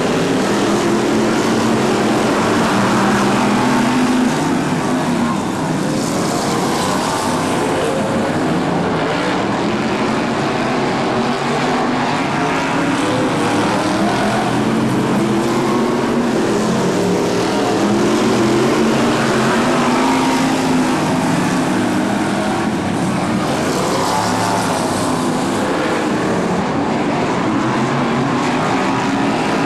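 A pack of BriSCA F1 stock cars with V8 engines racing round a short oval, the engine note rising and falling every few seconds as the cars accelerate and lift.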